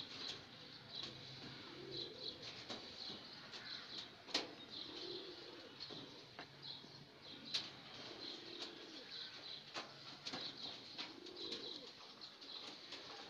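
Faint background birds: soft low calls every second or two and quick high chirping. A few sharp light clicks stand out, the loudest about four and a half seconds in and again at about seven and a half seconds.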